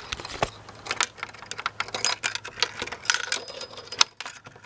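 Skeleton key rattling and clicking in a mortise lock's keyhole as it is worked and turned, many small metal clicks with a sharper click about four seconds in.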